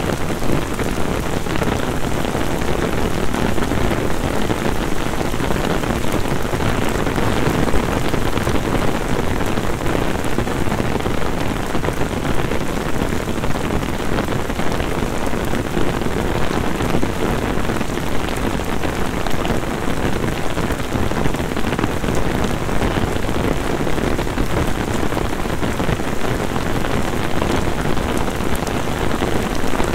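Heavy summer downpour falling on a flooded paved street and on an umbrella overhead: a loud, dense, steady hiss of rain.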